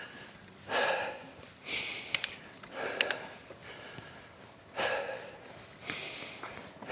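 A cyclist breathing hard from the effort of pedalling uphill, a short heavy breath roughly once a second.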